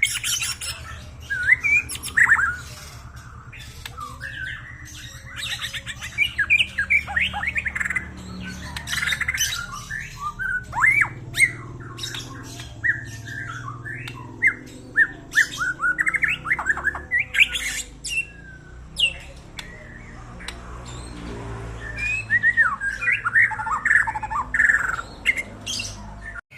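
White-rumped shama singing a varied song of clear whistles, fast sweeping notes and harsh squawks, in bursts of phrases with short pauses between them, over a faint low hum. It is a lure song meant to stimulate a caged shama that has stopped singing.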